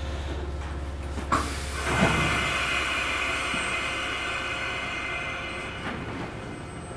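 Mizuma Railway 1000-series electric train standing at a platform with a steady low hum. Two knocks come about a second and two seconds in, followed by a long air hiss that fades over about four seconds, typical of the train's air system venting as it readies to depart.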